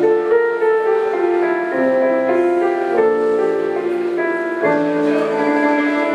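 Live keyboard playing: slow, sustained chords that change every second or so.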